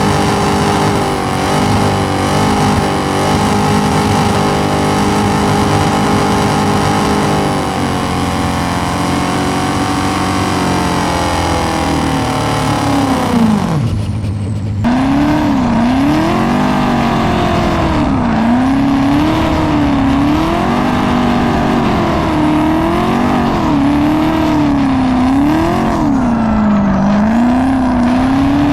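Turbocharged M62 V8 in a BMW E30. It runs at steady high revs for several seconds, then the revs drop away. After a break of about a second, the engine is revved up and down repeatedly.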